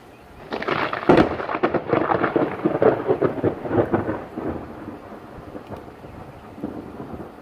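Thunder from a lightning strike: it breaks about half a second in with a sharp crack, then rumbles and crackles for a few seconds and slowly dies away, swelling briefly once more near the end.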